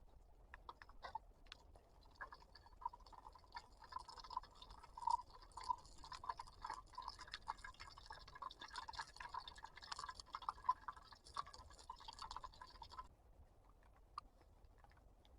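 Soft, irregular wet crackling and clicking as cotton pads are dipped in melted candle wax in a small jar and handled. It starts about a second in and stops abruptly near the end.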